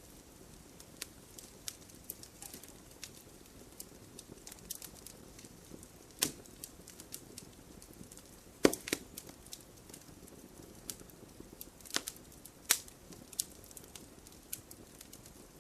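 Wood fire crackling, with a steady low hiss and scattered sharp pops and snaps, a few louder cracks standing out about six, nine and twelve seconds in.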